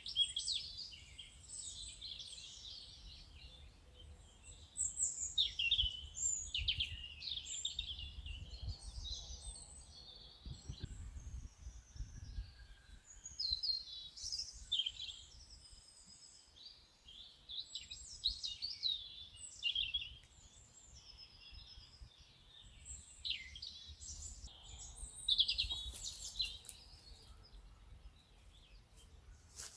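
Several birds singing and chirping, many short overlapping calls, over a low background rumble.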